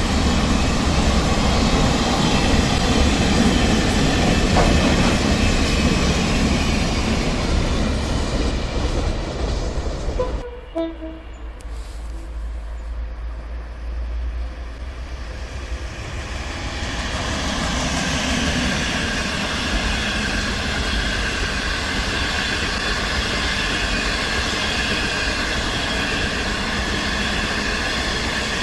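Train running through the station on the rails, with loud, steady rail and wheel noise. It drops away abruptly about ten seconds in, and a few seconds later the noise of a train builds up again and holds.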